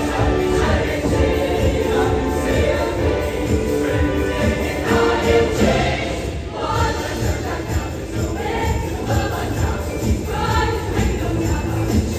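Show choir singing over a loud backing track with a steady bass beat and jingling sleigh bells.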